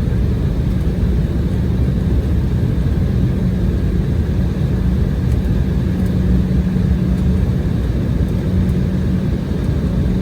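Cabin noise inside an Embraer E190 airliner after landing, during the taxi: a steady low rumble from the engines with an even hum running through it.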